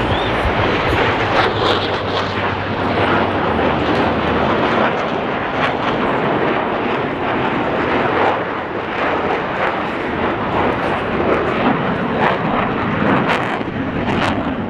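Jet noise from Blue Angels F/A-18 Super Hornets flying the Delta Breakout: a loud, continuous rushing with a crackling edge.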